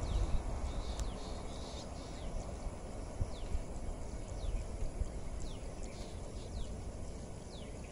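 Low rumble of a passing train dying away down the line. Over it, a bird gives short, high chirps that slide downward, repeated every second or so.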